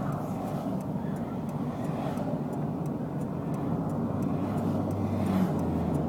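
Steady rumble of highway traffic going past, with one vehicle's low drone growing louder near the end.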